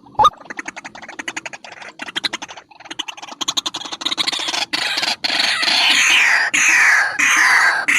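White-breasted waterhen (ruak-ruak) calling: a fast chattering run that builds in loudness, breaking in the second half into loud, harsh calls repeated one after another, each falling in pitch.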